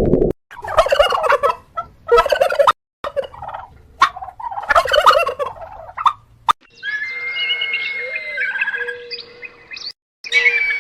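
Domestic fowl calling: a run of loud, rattly calls over the first six seconds, then an abrupt change to high, thin chirping calls over a steady tone.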